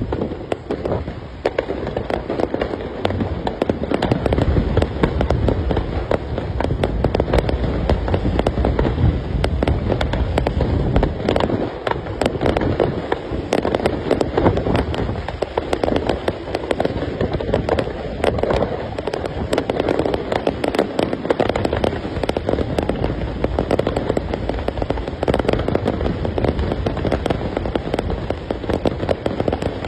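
Fireworks display: a dense, continuous barrage of bangs and crackling over a low rumble of booming shells.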